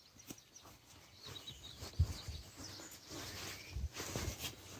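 Faint birdsong of short chirps in the open air, with a few soft low bumps, one about two seconds in and another near the end.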